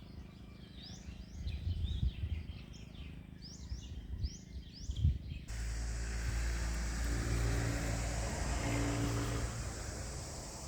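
Birds chirping repeatedly over a low rumble, then, after an abrupt cut about halfway through, a motor vehicle running steadily with a low hum.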